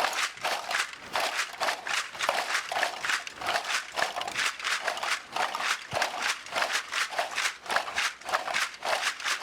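Homemade percussion effect instruments made from small plastic Yakult and Danoninho bottles on a string, played together in a steady rhythm of about four short strokes a second.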